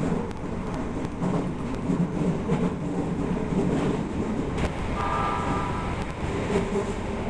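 Odakyu electric commuter train running at speed, heard from the cab: a steady rumble of wheels on rail with scattered clicks from rail joints. A brief high tone sounds about five seconds in.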